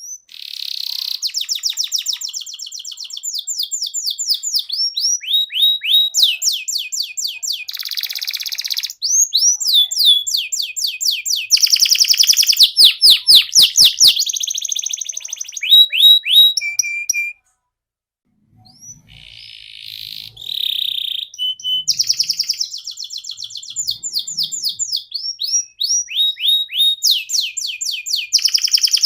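A canary singing in full song: fast rolls and trills of rapidly repeated chirps, switching from one note pattern to the next, with a brief pause a little past halfway.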